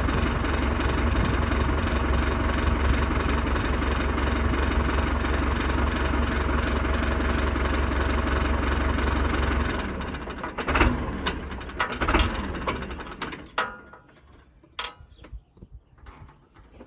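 YTO Agri Master 854 tractor engine running steadily, then stopping about ten seconds in. A few sharp metallic clanks and clicks follow.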